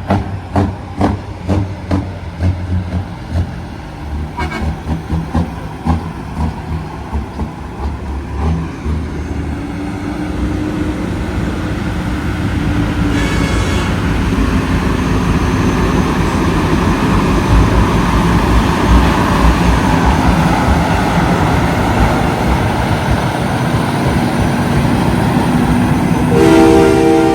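Semi-truck diesel engines with a pulsing beat, then a steadily growing rumble as the rigs roll by. A brief horn toot comes about halfway through, and a loud chord-like air horn blast near the end.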